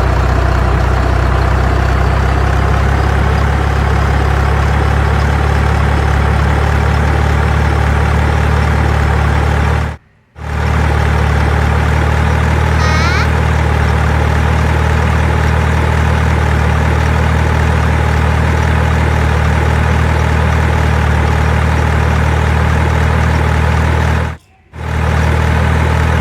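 Motor running at a steady speed with a constant low drone. It cuts out abruptly for a moment twice.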